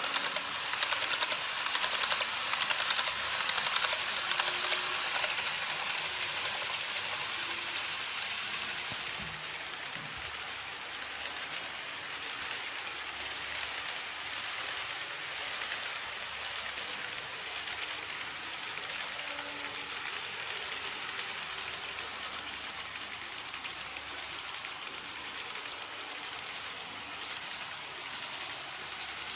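Model train running on model railway track: a dense, fast clicking rattle of wheels over the rail joints. It is loud for the first several seconds, then drops to a quieter, steady rattle.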